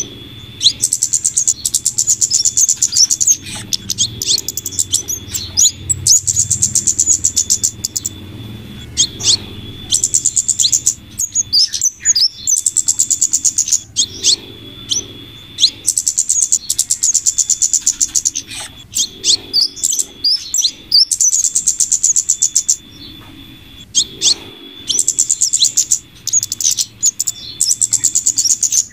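Bird-trapping lure recording of flowerpecker calls combined with female minivet calls: rapid, high ticking trills in bursts of a couple of seconds, repeating over and over with short gaps, over a thin steady high tone.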